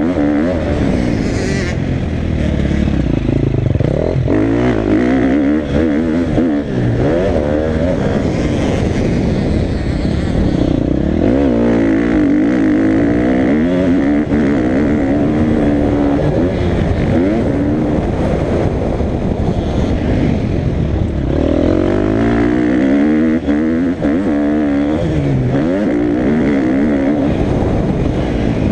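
Motocross dirt bike engine being ridden hard, its pitch rising and falling over and over as the throttle is opened and closed and the gears change.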